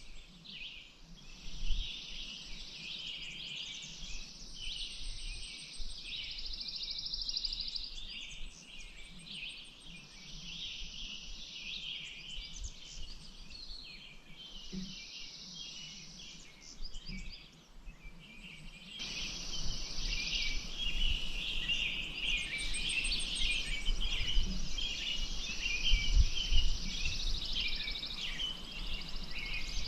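Several songbirds chirping and singing busily and without pause. About two-thirds of the way through, a steady hiss joins them and the whole gets louder.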